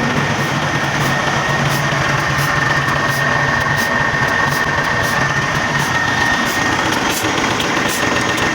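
Nissan GE13 V8 diesel truck engine idling steadily, with a steady high-pitched whine over the running.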